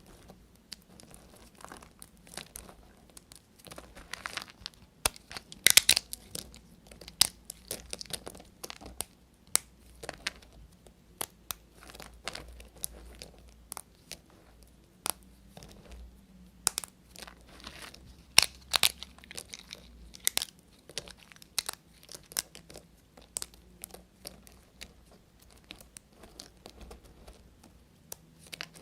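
Knife cutting through bars of soap: dense, irregular crunching and crackling, with a few longer scraping cuts.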